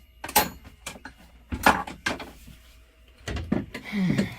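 A few sharp knocks and clunks of parts being handled while a shock on a fold-down upper truck bunk is worked on: one about half a second in, two more around a second and a half to two seconds, and a busier patch of handling near the end.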